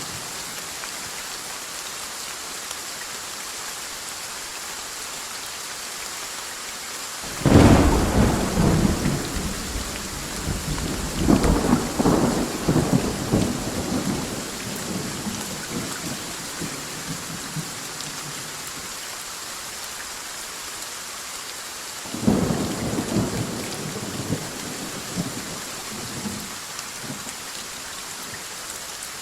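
Steady rain falling, with a sudden loud thunderclap about a quarter of the way in that rolls on in rumbles for several seconds, and a second, softer roll of thunder near the end.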